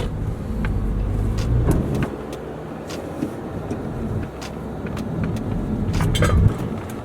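Toyota Camry's engine and road noise heard from inside the cabin as the car is driven hard, the engine swelling twice and easing off near the end.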